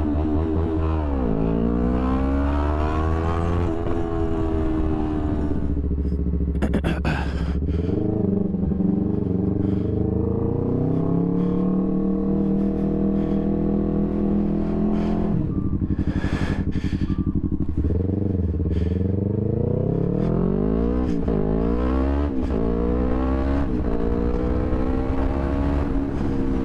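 Yamaha YZF-R3's parallel-twin engine through an Akrapovic full exhaust, ridden in traffic: its pitch climbs and drops repeatedly as it accelerates and shifts, with a steadier stretch of cruising in the middle.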